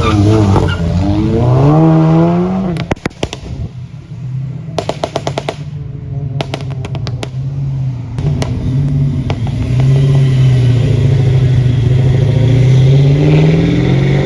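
Car engine revving up, then exhaust crackling and popping in quick bursts as the throttle closes, before the engine pulls steadily again and rises in pitch near the end.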